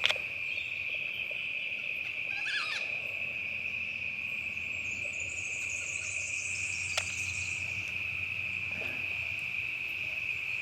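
Crickets chirring in a steady, continuous high-pitched chorus, with a faint brief click about seven seconds in.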